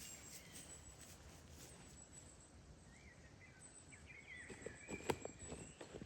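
Quiet outdoor ambience with a bird giving short sliding chirps and a thin, steady high tone, then footsteps starting about four and a half seconds in.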